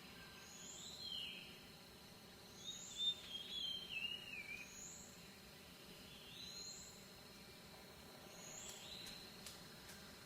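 Birds singing, faint: a short high chirp repeated about every second and a half, with a lower warbling phrase that falls in pitch a few seconds in.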